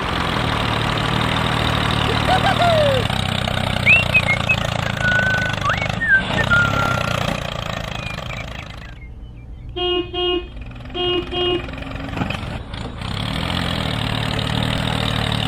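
A small engine running steadily, with a few short gliding chirps over it. About nine seconds in the engine drops away, and four short horn toots sound in two pairs before the running sound picks up again.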